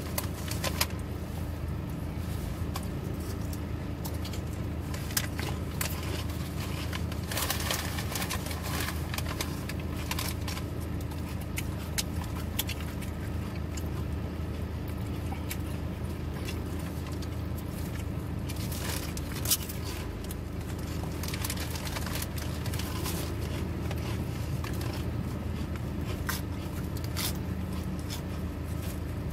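Eating sounds: chewing and small crunches, clicks and rustles from a lettuce-filled chicken salad sandwich, scattered irregularly, with one sharper click a little past the middle. Under them runs a steady low hum inside a car's cabin.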